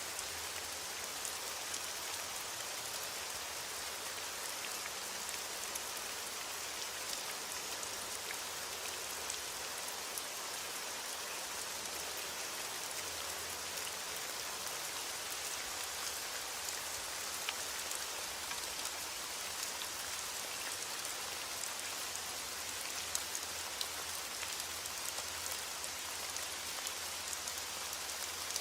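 Steady rain falling, an even hiss with many small drop patters scattered through it.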